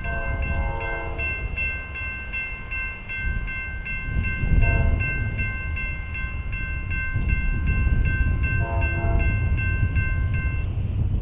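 Grade crossing bell ringing about three strikes a second as an approaching CSX freight locomotive sounds its horn three times (long, short, then medium), over a low rumble of the train. The bell stops shortly before the end.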